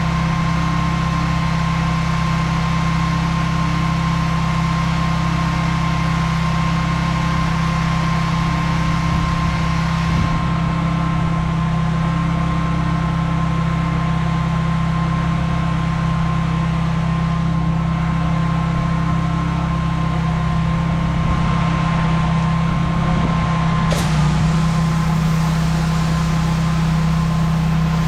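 Gas engine of a pressure washer running at a steady pitch and level, with a single sharp click about three quarters of the way through.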